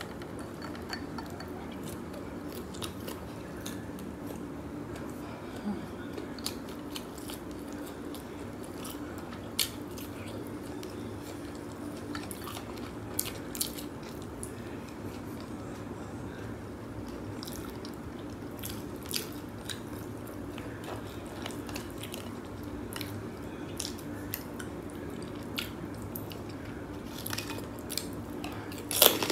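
Close-up eating sounds from seafood boil shrimp and blue crab: wet chewing and mouth clicks scattered throughout, over a steady low hum. Near the end comes a louder crunchy bite into a cracker.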